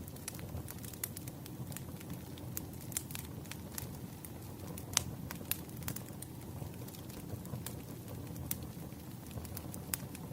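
Wood fire crackling: irregular sharp snaps over a low steady rumble, with one louder snap about five seconds in.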